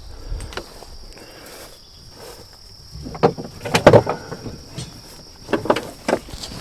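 A run of dull knocks and clunks, loudest about four seconds in and again near the end, over the steady high drone of insects.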